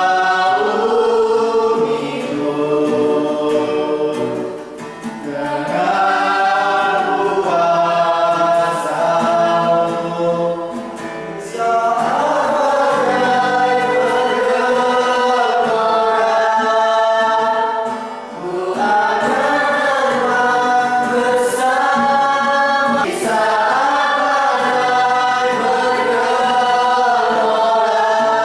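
A group singing a Christian worship song together, in sustained phrases of a few seconds each with brief pauses between.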